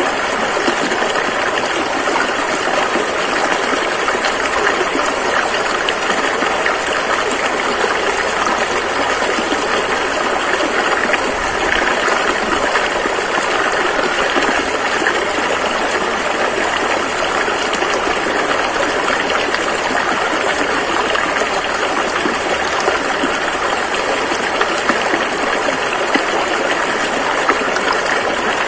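Rushing river water, a steady loud rush of flowing rapids with no breaks.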